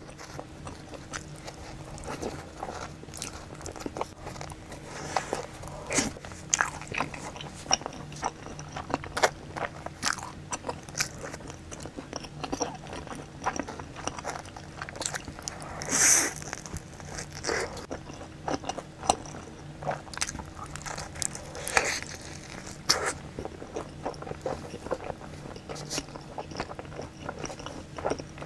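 Close-miked eating of a slice of pizza topped with sauced boneless chicken: bites and chewing, with many small crunches and wet clicks from the mouth, and one louder crunch about halfway through.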